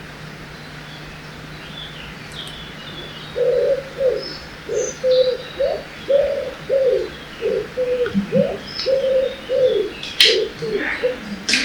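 A dove-like bird cooing in a long run of low repeated notes, about two a second, starting a few seconds in. Underneath is a steady hiss of running water and faint high chirps of small songbirds. Two sharp clicks come near the end.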